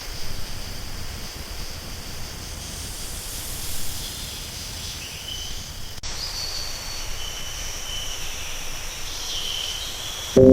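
Steady outdoor background hiss with a few short, faint high chirps in the second half, and a brief break about six seconds in.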